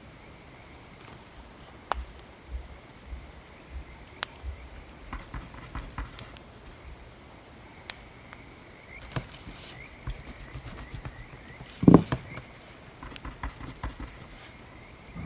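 Wood fire crackling, with scattered sharp pops over a steady hiss, mixed with soft scratching and tapping of desk work; a single louder dull knock about twelve seconds in.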